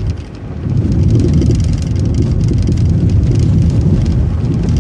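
Transit bus in motion, heard from inside: a steady low rumble of engine and road noise that dips briefly about half a second in, then holds steady.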